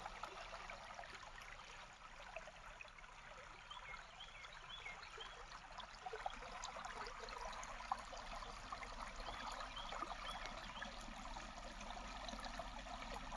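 A creek trickling and babbling steadily over its bed.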